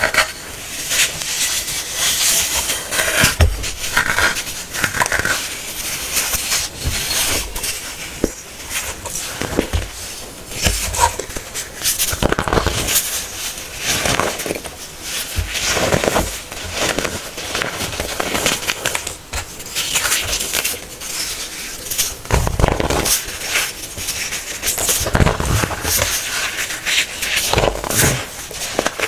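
Hardened baking soda being crushed, giving a dense run of crisp crunches and crackles with brief pauses between squeezes.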